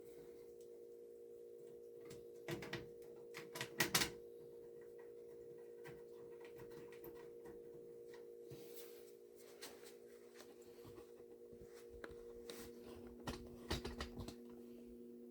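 Faint clicks and taps of a metal appliance cover and shield being handled and fitted back into place, in a few short clusters, over a faint steady hum.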